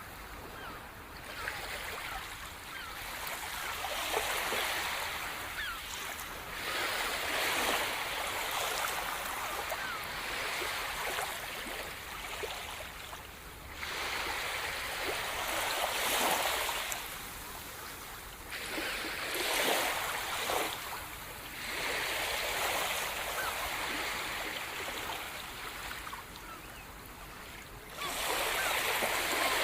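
Rushing water noise that swells and eases every few seconds, with faint small crackles through it.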